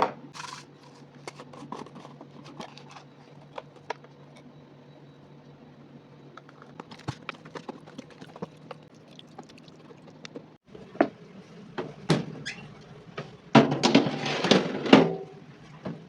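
Kitchen handling sounds: scattered clicks and knocks over a steady low hum, with a louder spell of clattering and rustling near the end.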